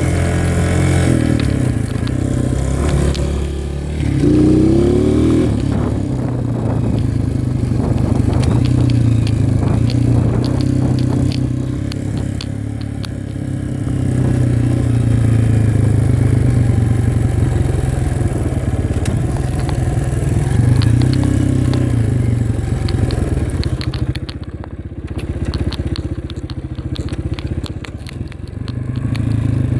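Dirt bike engine running while riding, its pitch rising and falling with the throttle. Many short clicks and crackles come through in the last few seconds.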